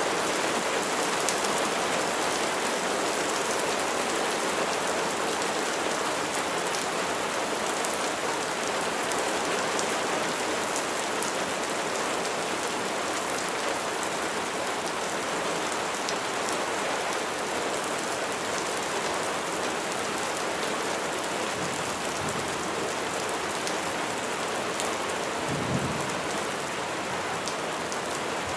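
Steady rain falling: an even, dense hiss with scattered sharp ticks of individual drops. A brief low rumble comes near the end.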